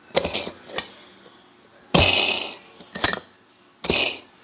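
Small hard objects clinking and clattering, rattled on purpose to make noise, in about five short bursts, the longest about two seconds in.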